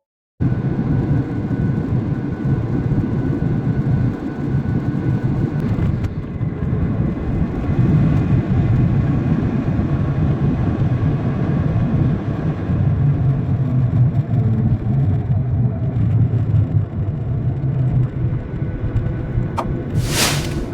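Airbus A319 cabin noise while taxiing after landing: a steady rumble of the engines and rolling wheels with a faint steady whine. A short, sudden loud burst comes near the end.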